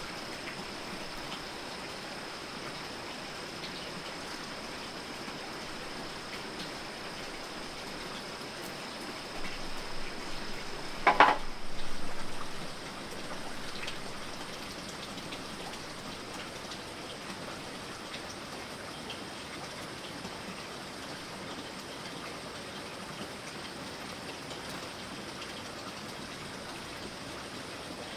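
Steady water-like rushing hiss, with a high steady tone that fades out about eleven seconds in. Around the middle comes a short cluster of knocks, one of them sharp and loud.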